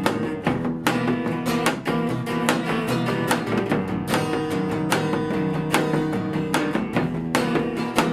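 Strummed guitar playing an instrumental passage of a live song, with sustained chords and evenly spaced strum strokes, no singing.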